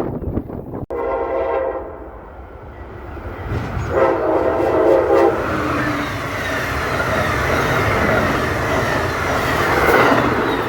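Train horn sounding two blasts, a short one about a second in and a longer, louder one about four seconds in. The train then passes close by with a steady rush of wheels on rail that swells near the end.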